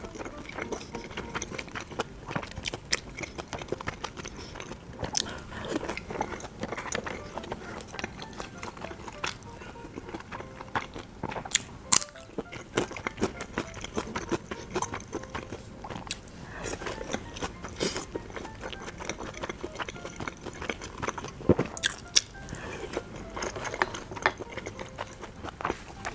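Close-up chewing and biting of boiled dumplings in chili oil, with many short irregular mouth smacks and clicks, over quiet background music.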